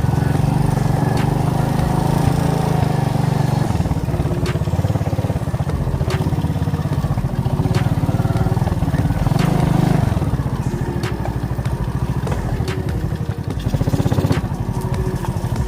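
Alpha moped's small single-cylinder four-stroke engine running under load on a rough forest track. The engine note rises with the throttle about ten seconds in and again near the end. Scattered sharp knocks come from the bumpy ride.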